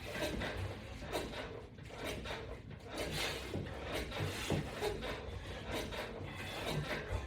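Irregular rubbing and soft knocks of exercise movement with resistance bands and straps, with no steady rhythm.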